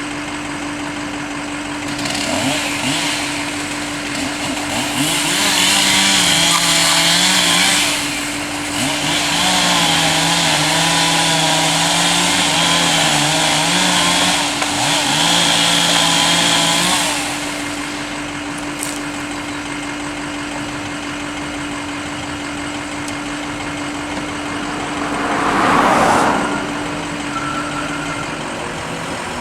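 A chainsaw cuts for about fifteen seconds, revving high and steady with two short breaks, over the steady drone of an idling truck engine. Near the end a brief loud whoosh swells and fades.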